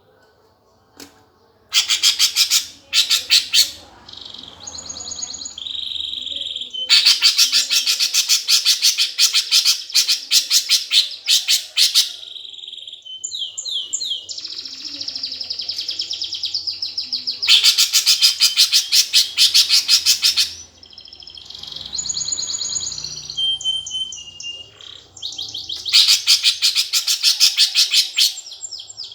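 Eurasian tree sparrows giving rapid, harsh chattering calls in bursts lasting a few seconds, the agitated calls of sparrows fighting. Shorter whistled and chipped notes fill the gaps between the bursts. The sparrows start calling about two seconds in.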